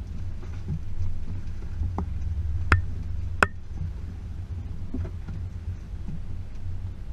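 Range Rover P38's V8 running with a steady low rumble as it drives an off-road track, with three sharp knocks in the middle, the last two loudest.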